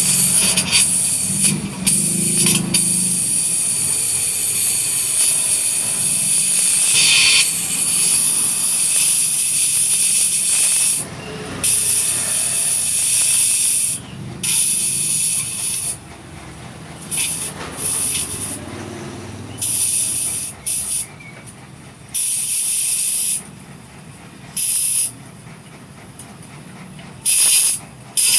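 Loud hissing in bursts of a few seconds that start and stop abruptly, coming more briefly and with longer gaps in the second half.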